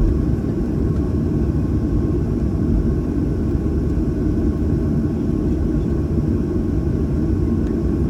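Steady low rumble of a Boeing 737-800's CFM56-7B jet engines and airflow, heard inside the passenger cabin.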